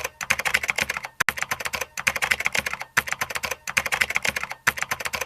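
Rapid keyboard typing: quick clicks, roughly ten a second, coming in runs of about a second with short pauses between them.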